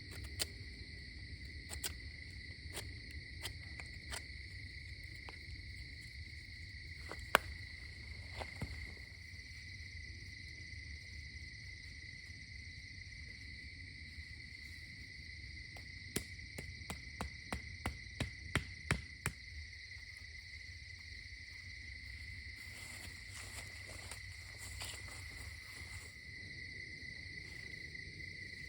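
Night chorus of crickets, a steady high-pitched trill, faint. Scattered sharp clicks, one about seven seconds in and a quick run of them between about 16 and 19 seconds.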